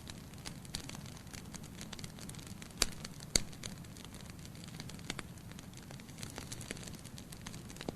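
Logs burning in a fireplace with a low steady rumble of flame and frequent small crackles, with two sharp, loud pops a little under three seconds in and just over three seconds in.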